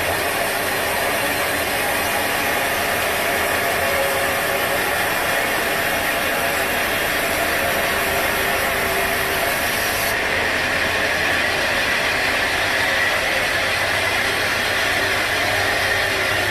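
Sawmill machinery running with a steady, dense noise. About ten seconds in the sound shifts: the highest hiss drops away and a low hum comes in.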